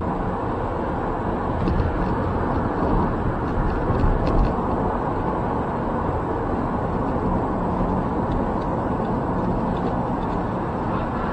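Steady road noise of a moving vehicle picked up by a dashcam, with a faint high whine held throughout.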